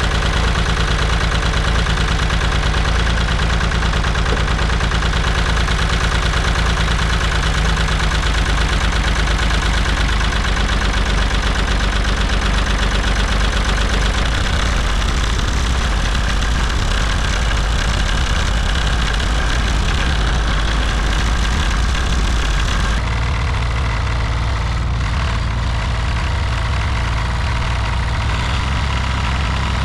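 Tractor engine running steadily while the tractor tries to pull itself free from deep snow and ice. The engine note changes a few times, about a third of the way in, near the middle and again later.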